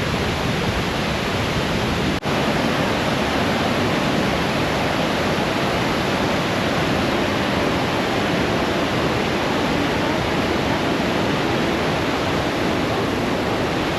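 The steady rush of Iguazu Falls, a dense wall of falling water heard close to the spray, with a momentary dropout about two seconds in.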